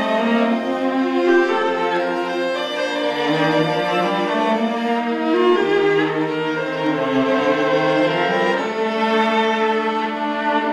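Bowed string music, violin and cello playing together in long held notes.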